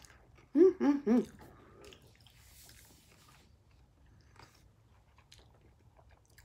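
A person chewing a crunchy tostada with the mouth closed, humming three short 'mm' sounds of enjoyment about half a second in, followed by faint crunching and small mouth clicks.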